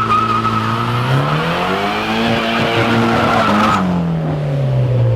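Car engine revving with its tyres squealing under wheelspin. The squeal stops about two-thirds of the way through, and the engine pitch then falls away.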